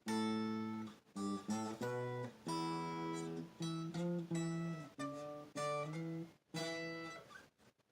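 Modded electric guitar with a clean tone, strummed chords that are cut off abruptly and come back again and again: the kill-switch button stuttering the signal.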